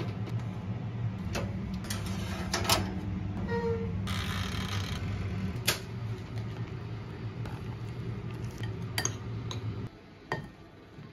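Dishes and cutlery clinking and knocking during cooking, over a steady low hum from a kitchen appliance that cuts off suddenly near the end.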